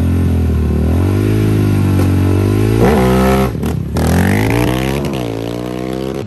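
Sport ATV engine revving hard, its pitch climbing and dropping several times with a short break a little past halfway; the sound cuts off suddenly at the end.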